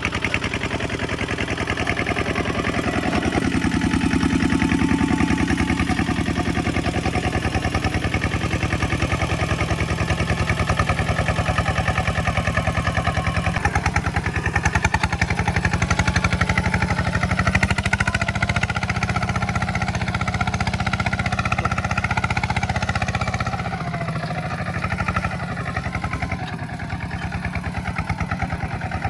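Tractor diesel engine running with a steady rapid pulse; its note changes about a third of the way in and again near the end.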